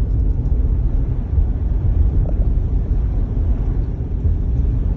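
Steady low rumble inside the cabin of a 2019 Jeep Grand Cherokee cruising on a snow-covered road: mostly tire and road noise.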